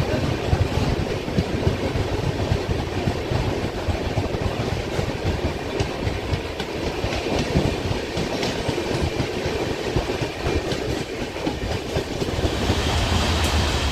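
Gujarat Mail express train departing a station, its coach wheels running steadily on the rails with occasional clicks.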